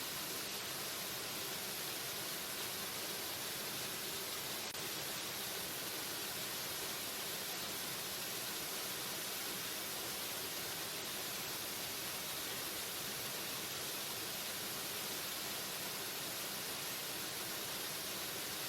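Waterfall: a steady, unbroken rush of falling water, a bright even hiss with no separate splashes or other events.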